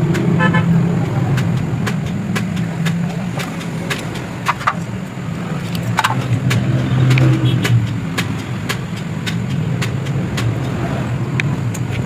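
Motorcycle engine running steadily, with many sharp clicks and knocks scattered over it.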